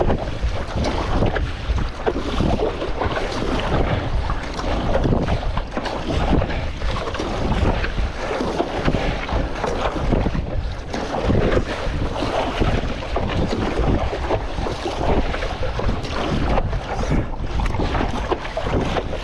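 Strong wind buffeting the microphone in gusts, over choppy sea water splashing and slapping around a stand-up paddleboard.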